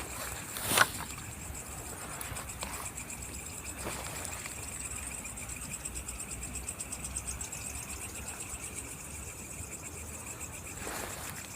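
Insects chirping steadily in the forest, a high, fast-pulsing trill. About a second in comes a single sharp knock or crack, louder than the trill.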